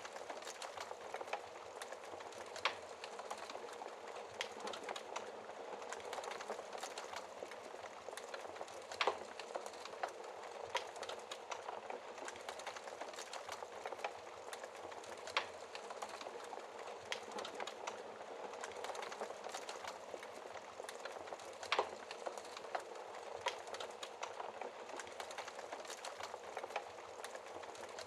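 Wood fire crackling in a fireplace: a steady hiss of burning with irregular small snaps and a handful of louder pops.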